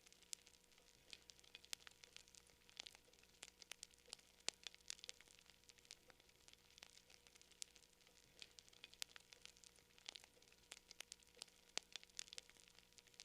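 Campfire crackling, faint, with wood popping and snapping in quick irregular clicks, several a second.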